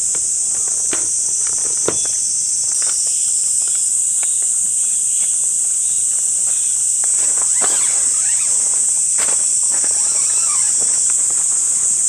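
Steady high-pitched insect chorus, with scattered taps and knocks of movement around the camp.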